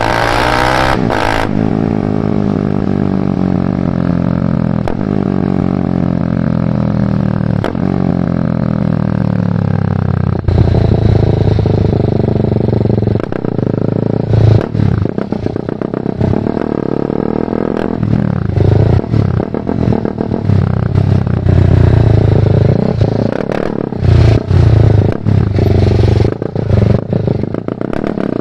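BMW G310R's single-cylinder engine through a full Mivv aftermarket exhaust while riding. For the first ten seconds the revs fall steadily as the bike slows on a closed throttle. Then the engine gets louder, and the throttle opens and closes repeatedly to the end.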